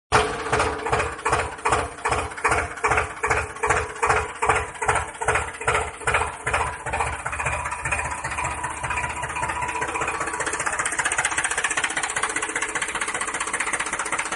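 Small engine running with an even thumping beat, about three beats a second, which smooths into a steady run after about seven seconds.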